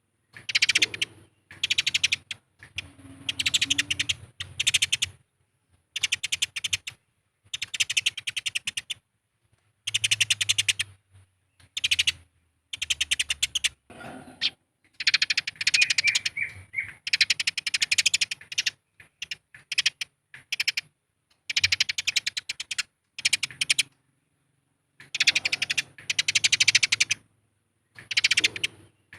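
Eurasian tree sparrows chattering in a fight: rapid, dense chirps in bouts of one to two seconds with short silences between.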